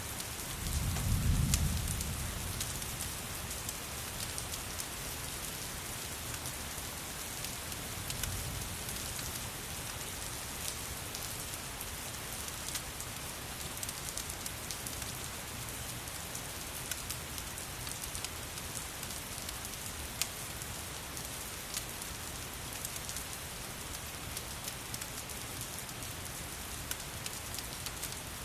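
Steady rain with a crackling fireplace: a constant hiss dotted with sharp little crackles and drops. A low rumble swells briefly about a second in.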